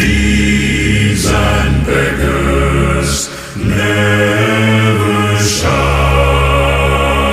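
Background music: a low choir holding slow, chant-like notes of a sea-shanty-style song, with a short break a little past three seconds in.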